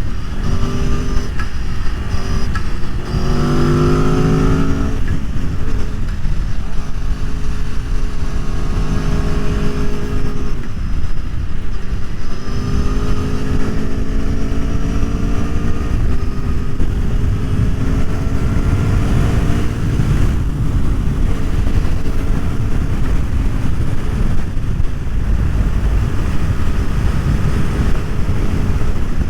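Aprilia Tuono V4 1100's V4 engine accelerating hard through the gears, its pitch climbing and dropping back at each upshift, over a constant low rush of wind noise.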